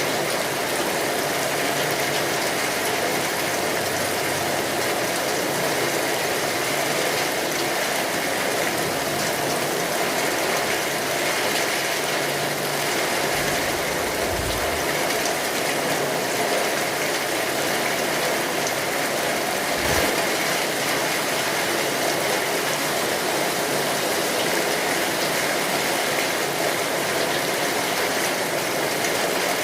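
Steady rain, dense drops pattering on hard surfaces. Two brief low thumps stand out, one about halfway through and a shorter one about two-thirds of the way through.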